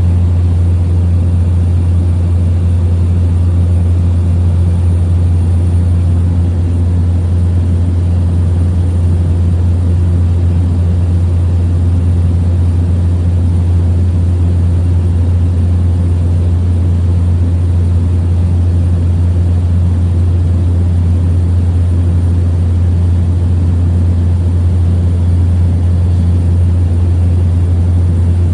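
Steady drone of a small propeller plane's engine and propeller in cruise, heard from inside the cabin, with a strong low hum and an even, unchanging level.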